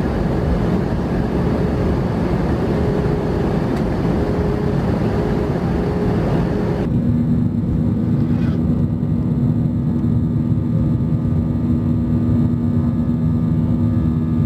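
Jet airliner cabin noise heard from a passenger seat: a steady loud rush of air and engine hum. About seven seconds in, the sound changes abruptly to a different airliner cabin, with less hiss and a lower steady drone.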